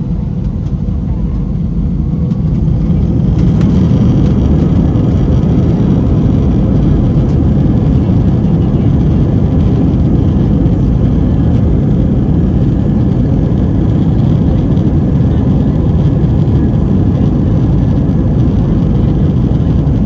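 Jet airliner engines and deep rumble heard from inside the cabin during takeoff. The noise grows louder a few seconds in, as faint high whining tones come in, then holds steady.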